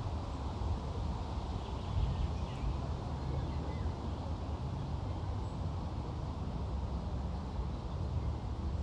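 Outdoor ambience: a steady low rumble with a few faint bird chirps about two to three seconds in.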